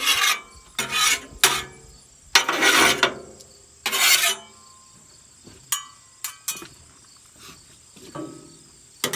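Metal spatula scraping across a hot steel griddle top in about five short strokes over the first four seconds, then a few sharp clicks. Crickets chirp steadily in the background.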